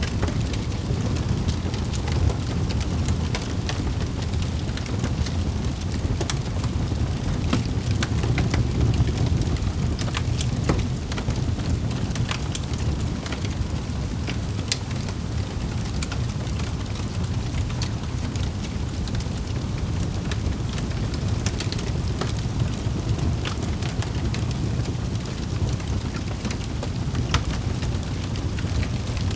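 Wood fire crackling in a fireplace: irregular sharp pops and snaps scattered over a steady low rumble of burning.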